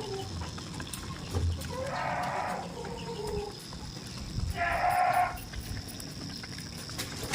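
Goats bleating: two calls, one about two seconds in and a louder one about four and a half seconds in.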